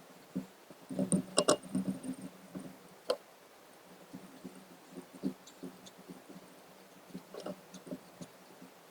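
Light clicks and knocks of objects being handled: a cluster in the first two seconds, one sharp click about three seconds in, then faint scattered taps.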